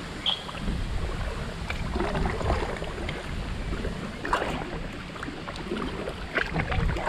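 Kayak paddle strokes splashing in canal water, with gusty wind rumbling on the microphone.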